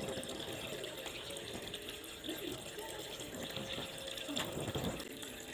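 Water running steadily from a tap, with a few light knocks near the end.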